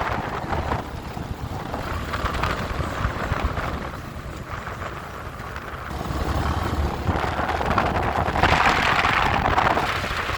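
Wind buffeting the microphone on a moving motorcycle, over a low rumble of engine and road, with the rush of wind swelling over the second half.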